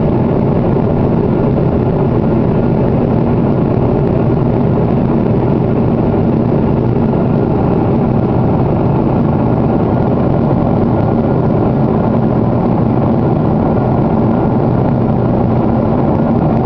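Steady cabin noise of a Boeing 777-300 airliner at cruise altitude: a loud, even rush of air and engines with a low hum underneath.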